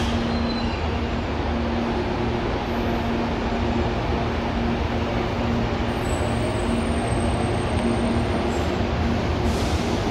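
CPTM electric multiple-unit commuter train moving slowly through the station: a steady rumble with a constant low hum.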